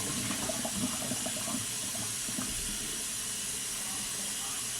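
Tap water running steadily into a sink while eggs are rinsed under it.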